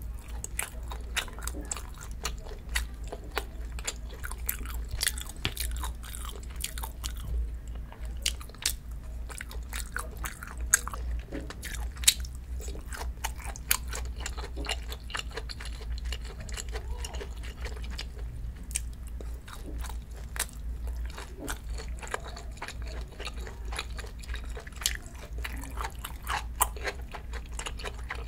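Close-miked chewing and biting of food: a steady run of small, irregular crunches and mouth clicks. A steady low hum runs underneath.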